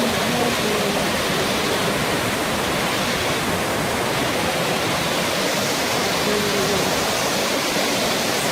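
Waterfall water rushing and crashing in a steady, unbroken roar of noise.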